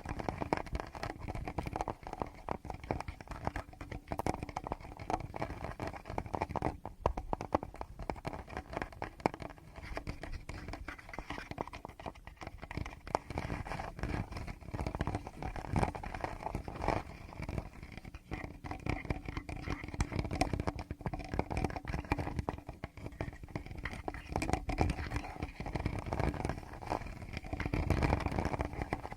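Fingertips scratching, rubbing and tapping directly on the microphones of a Tascam recorder: a close, continuous run of small scratches and taps.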